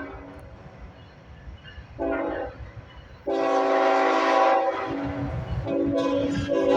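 Diesel locomotive's multi-chime air horn sounding: a short blast about two seconds in, then a long blast and another that carries on to the end, over a low rumble of the passing train.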